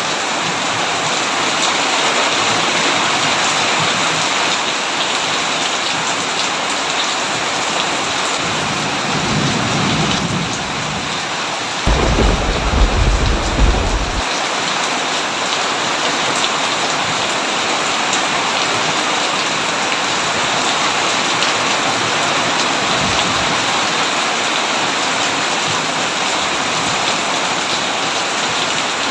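Steady heavy rain pelting a tin roof. About nine seconds in, a roll of thunder builds, peaking in a deep, loud crack a few seconds later before fading back under the rain.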